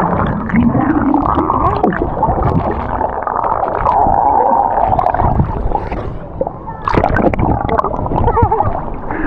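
Muffled gurgling and sloshing of seawater around a wet camera microphone being dunked in the water, with wavering, bending tones through the muffle.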